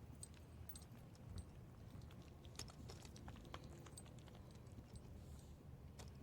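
Near silence: faint scattered clicks and light handling noises over a low background rumble.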